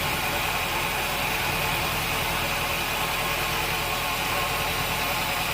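Sawmill machinery running steadily, a continuous mechanical drone and hiss with no change in pace.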